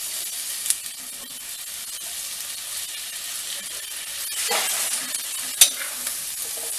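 Sliced brinjal (eggplant) sizzling in hot oil in a clay pot while being stirred and tossed with a metal spatula, the sizzle swelling as it is turned over. Two sharp clinks of the spatula against the pot, the second near the end the loudest.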